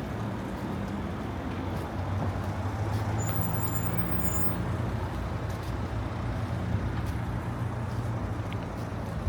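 A motor vehicle's engine running steadily in street traffic, a low hum that strengthens about two seconds in, over wind noise.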